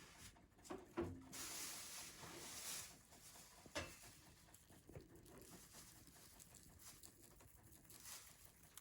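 Near silence: faint rustling and light handling noise with two short knocks, one about a second in and another near four seconds.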